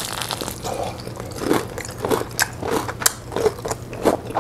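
Crispy southern fried chicken being bitten into and chewed close to the microphone: the crust crackles sharply over a steady chewing rhythm of a little under two chews a second.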